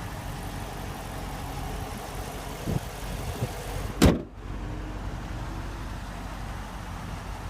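The 2015 Dodge Challenger R/T Plus's 5.7-litre Hemi V8 idling with a low, steady rumble. About four seconds in comes one loud slam as the hood is shut.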